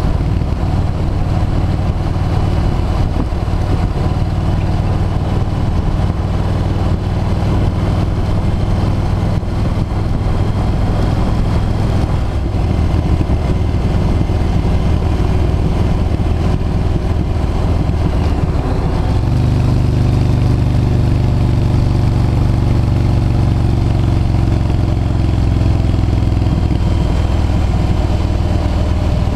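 V-twin cruiser motorcycle engine running steadily under way. About two-thirds of the way through, the engine note changes and grows stronger and steadier for several seconds, then eases back.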